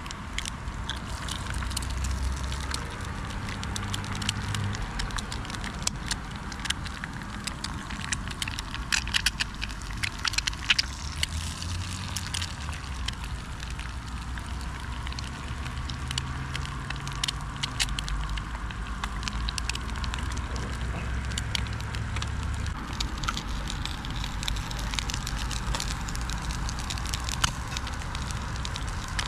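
Eggs and black pudding frying in oil in a small pan on a Trangia methanol spirit stove, sizzling with sharp pops and spits that are busiest about nine to eleven seconds in. A low rumble of road traffic runs underneath.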